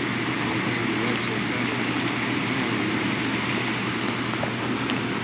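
Steady rush of fast-flowing river water below a dam spillway, an even noise at constant level with a low steady hum underneath.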